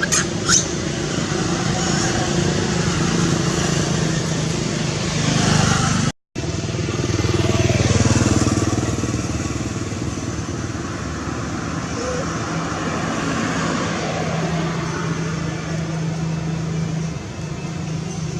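A motor running steadily with an even low hum, broken by a brief dropout about six seconds in.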